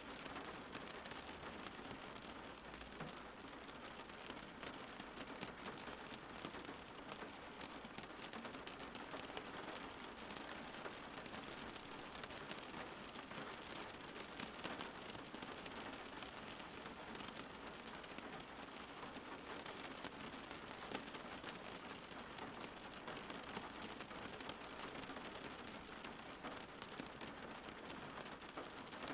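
Steady rain falling, a dense patter of many small drops on a surface.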